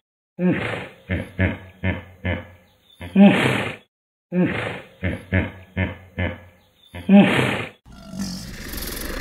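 Hippopotamus calling: one long call that wavers in pitch, followed by four or five short grunts. The phrase comes three times, about every four seconds. In the last second or so comes a steady hiss from a crocodile.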